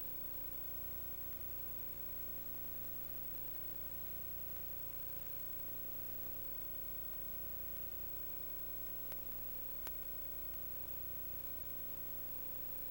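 Steady hum and hiss with no speech, with two faint clicks about a second apart near the end.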